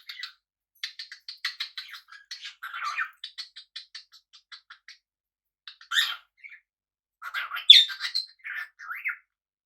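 Pet parrots calling: a fast run of short, clicky chattering calls, then a sharp squawk about six seconds in and a burst of louder squawks and calls near the end.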